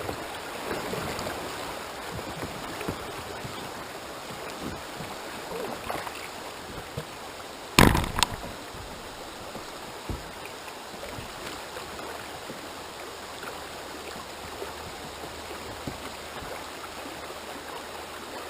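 Steady rush of river water around the kayaks, with scattered faint clicks. About eight seconds in, two loud, sharp knocks come in quick succession.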